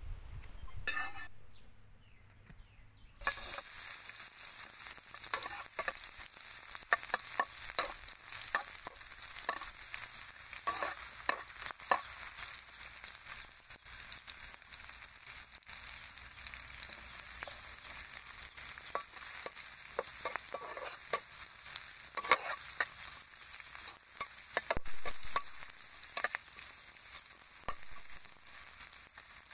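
Chopped garlic and chilies frying in hot oil in a nonstick pan: a sudden loud sizzle starts about three seconds in and keeps going, with a metal spatula scraping and stirring through it.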